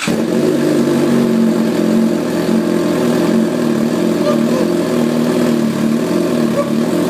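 2013 Suzuki GSX-R750's inline-four engine, breathing through a Voodoo shorty exhaust with the catalytic converter deleted, idling steadily and loud just after start-up.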